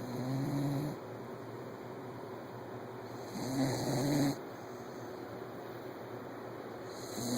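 Sleeping lab-terrier mix puppy snoring: three snores about three and a half seconds apart, each lasting about a second with a low humming pitch.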